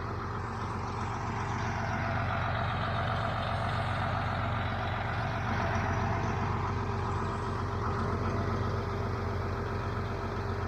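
1976 International Harvester 886 tractor's D-360 diesel engine running steadily, slightly louder through the middle.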